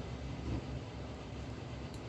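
Steady low background hum and room noise, with a faint light click near the end.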